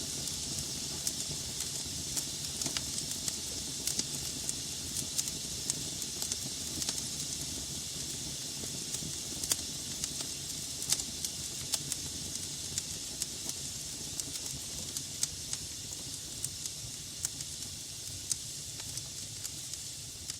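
Burning logs in a fireplace, crackling: a steady hiss with frequent sharp crackles and pops at irregular times.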